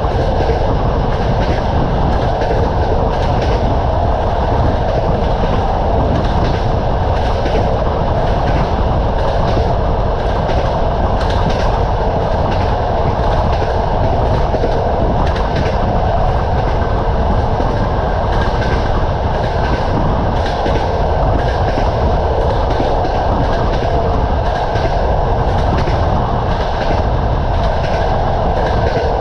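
Moving train's wheels clacking over the rail joints, a short click about every second, over a steady rumble of running noise.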